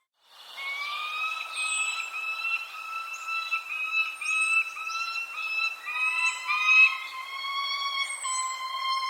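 Birds calling after a brief silence: a run of short, repeated pitched notes at a fairly steady pitch, with thin high chirps that slide downward every couple of seconds.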